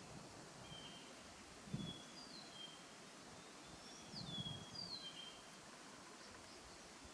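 Faint bird calls: short high chirps that slide down in pitch, repeated every second or so over a steady outdoor hiss, with a couple of low thumps.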